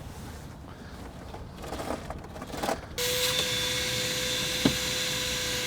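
Faint handling rustles, then about halfway through a small shop vacuum switches on suddenly and runs steadily with a constant whine over a hiss.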